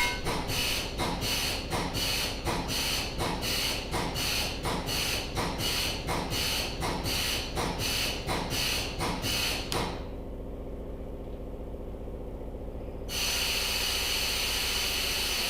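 Oil pump filling a tractor's closed-loop hydrostatic unit with oil, working in even, squeaky strokes about two a second for roughly ten seconds, then stopping. A steady low hum remains, and a steady hiss comes in for the last couple of seconds.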